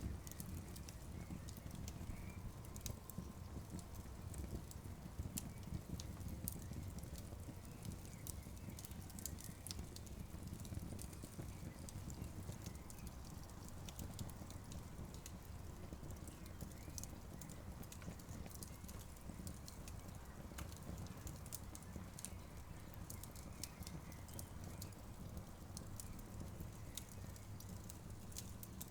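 Wood campfire crackling: many sharp, irregular pops and snaps over a steady low rumble.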